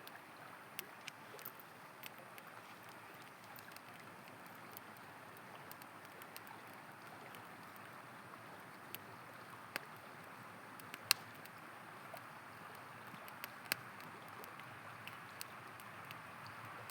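A river flowing steadily, with a campfire crackling over it in irregular sharp pops and snaps, the loudest a little past the middle.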